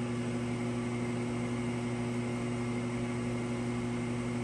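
Gas furnace's combustion fan (draft inducer) motor running with a steady hum during an ignition retry, before the gas valve reopens.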